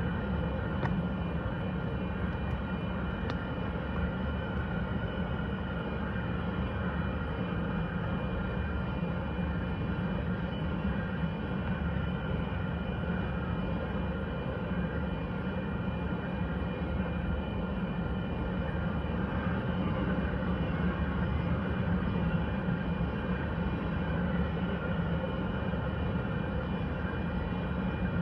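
Grain freight train passing: a steady, unbroken rumble of engines and rolling wheels with no change in level.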